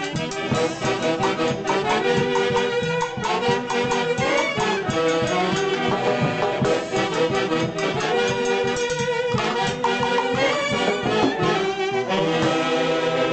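Andean festival orchestra playing, led by brass with trumpets and trombones over a steady beat.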